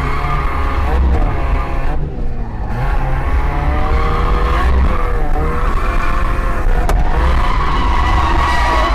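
Mazda MX5 1.6's four-cylinder engine held at high revs while the tyres squeal in a drift, the squeal wavering up and down in pitch.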